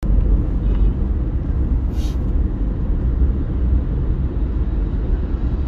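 Steady low engine and road rumble of a vehicle on the move, heard from inside it, with a short hiss about two seconds in.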